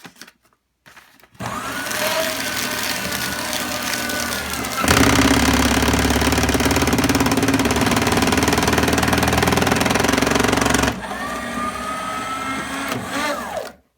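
Bonsaii C560-D paper shredder's motor and cutters running with a horrible noise while it is switched between reverse and forward. It starts about a second and a half in, gets louder about five seconds in, drops back about eleven seconds in with a slightly rising whine, and stops just before the end.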